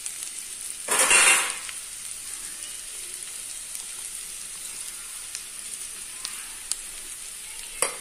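Raw banana cubes frying in oil in an aluminium kadai: a steady sizzle, with a brief louder rush about a second in and a few light ticks later on.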